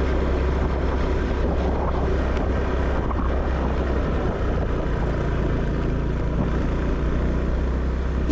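A motor engine running steadily with a deep low rumble, cutting off suddenly at the end.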